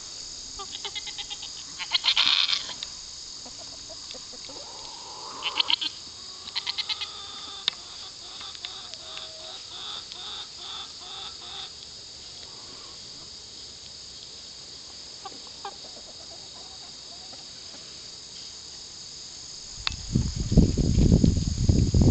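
Goats bleating several times, with crickets chirring steadily in the background. A loud low rumble takes over near the end.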